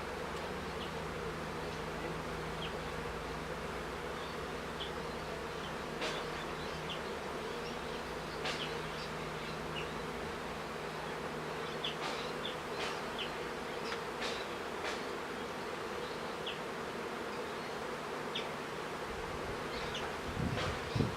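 Honeybee colony buzzing steadily as the hive is opened and worked, with scattered faint ticks and a single low knock near the end.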